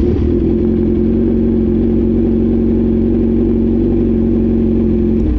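Kawasaki Z1000's inline-four engine idling steadily just after starting, running fine on a Power Commander 5 with an aggressive map. The engine sound stops abruptly near the end.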